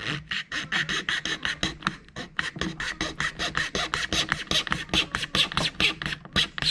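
A hand tool worked rapidly back and forth on a plastic model-kit part, scraping at about six strokes a second.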